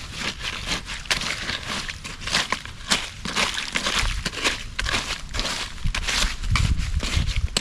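Irregular crunching, rustling and crackling as a campfire is being put out, with embers, ash and ground litter scraped and stirred.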